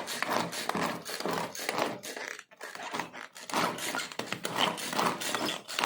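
Boiled potatoes being chopped with a knife: repeated strokes on a cutting board, two or three a second, with a short pause about two and a half seconds in.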